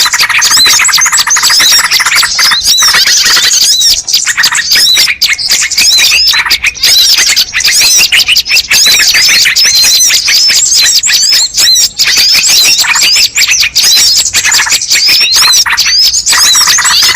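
Loud, dense chorus of many small birds chirping and trilling rapidly and without pause: a bird-lure recording of the kind played to draw wild birds in.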